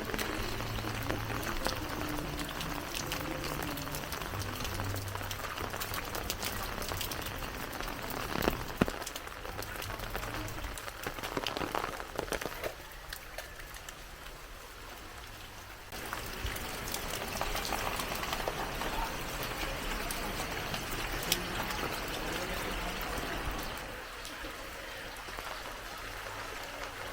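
Heavy rain falling, a dense patter of drops with scattered louder drips and taps. It turns quieter for about three seconds around the middle, then comes back at full strength.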